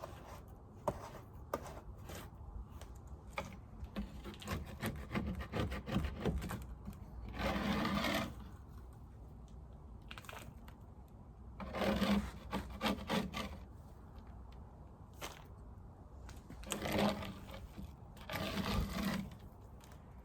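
Scraping dead bees and debris off a wooden beehive bottom board: a run of small knocks and clicks, then four longer scrapes, about eight, twelve, seventeen and nineteen seconds in.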